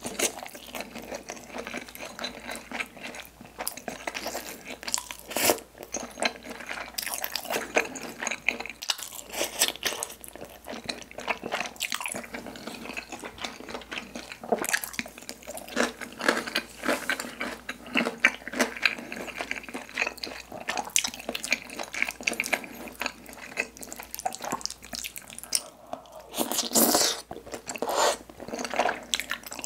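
Close-miked chewing of spicy tteokbokki with glass noodles: wet, sticky mouth sounds with many short clicks and some crunching, a louder stretch a little before the end.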